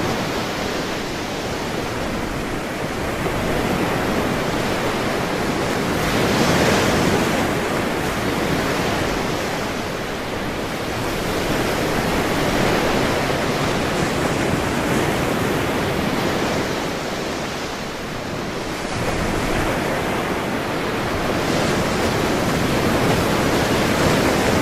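Ocean surf: waves washing in, the noise swelling and easing every few seconds.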